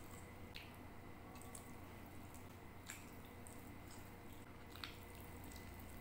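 Faint wet mouth sounds of someone eating chicken with their hands: a few separate smacks and clicks while chewing, over a steady low hum and hiss.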